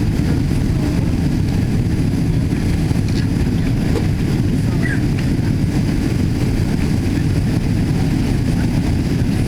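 Steady low rumble inside the cabin of a Boeing 777-200ER airliner, from its engines and the rush of air or the rolling wheels, holding an even level.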